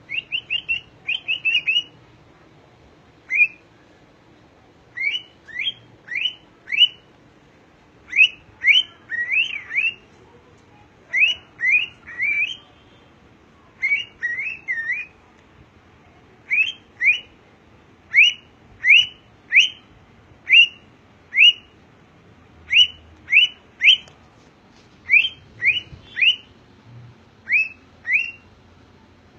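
Cockatiel whistling: short, sharp notes that mostly sweep down in pitch, given in quick runs of two to five with brief pauses between.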